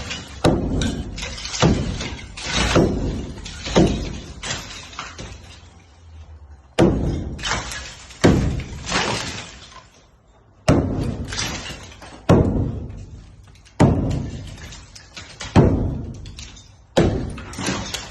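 Sledgehammer striking a brick partition wall. About a dozen heavy blows land one every second or two, each trailing off over a second or so, with short pauses between runs.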